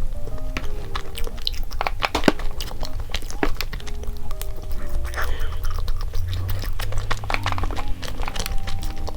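Close-miked chewing of chocolate crepe cake: a run of short, irregular mouth clicks. Light background music with a stepping melody plays underneath.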